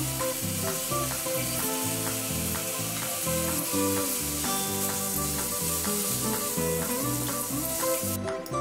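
Dabeli masala paste and mashed boiled potatoes sizzling in oil in a hot frying pan as they are stirred with a wooden spatula, over background music with a stepping bass line. The sizzle cuts off suddenly near the end.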